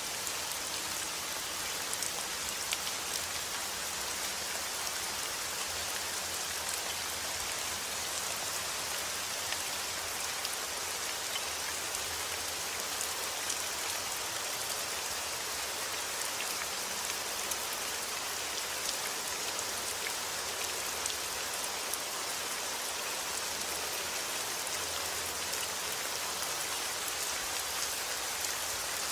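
Steady rain falling on outdoor surfaces, an even hiss dotted with many small drop ticks.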